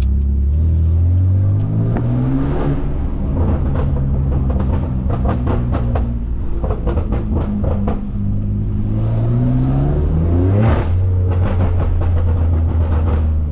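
BMW F80 M3's S55 twin-turbo straight-six through catless downpipes and an open valved axle-back exhaust, revving up under acceleration with a rising pitch. A run of irregular pops and crackles follows on the overrun, then a second pull rises in pitch and ends in a sharp crack about eleven seconds in.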